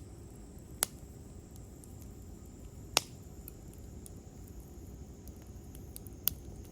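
Wood campfire crackling: three sharp pops, about a second in, at about three seconds and near the end, with fainter ticks in between over a low steady background.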